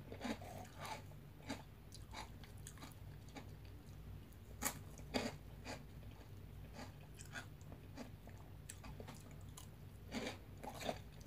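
Close-up chewing of crunchy veggie straws dipped in yogurt: irregular crisp crunches, with louder bites about five seconds in and again near the end, over a faint steady low hum.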